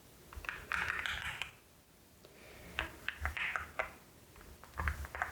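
Keystrokes on a LEOBOG HI75 mechanical keyboard with Nimbus V3 switches: three short bursts of several quick taps, with quiet gaps between them.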